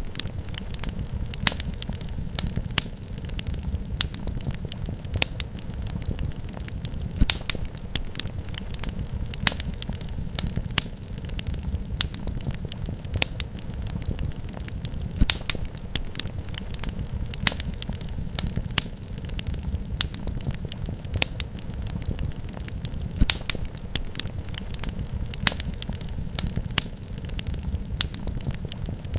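Wood fire in a fireplace crackling, with irregular sharp pops and snaps, several a second and some louder than the rest, over a steady low rumble.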